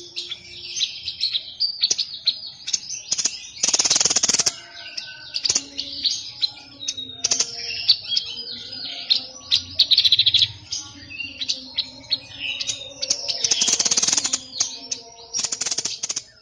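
A caged 'sniper' songbird singing non-stop in a rapid, varied string of high chirps and whistles. Loud harsh buzzing rattles come through about four seconds in and twice near the end.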